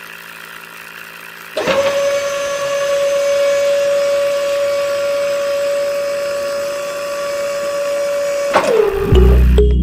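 A small electric motor, like a power tool's, starts up about a second and a half in and runs with a steady high whine, then winds down, dropping in pitch, near the end. Music comes in as it stops.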